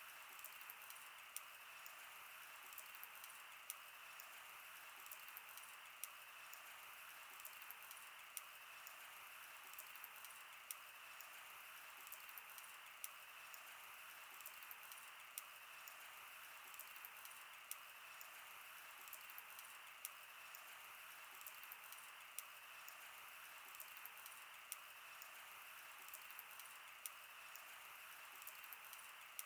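Wood fire burning: a faint, steady hiss with irregular sharp crackles and pops scattered throughout.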